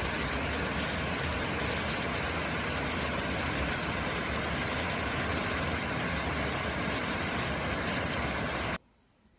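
Steady rushing of stream water, a dense even hiss and rumble that cuts off abruptly near the end.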